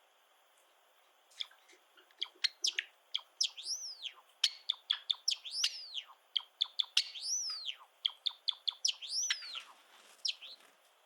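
Java sparrow singing: a quick string of dry clicks and short chips mixed with high, arching whistled notes that rise and fall. It starts about a second in and stops shortly before the end.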